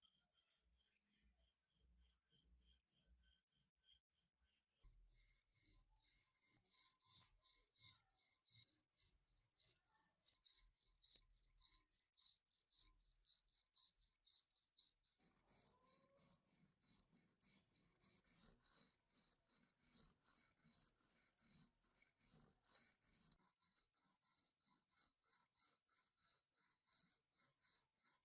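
Rapid back-and-forth hand strokes of an abrasive tool scraping rust off an old iron wrench, about four strokes a second, getting louder and harder about five seconds in.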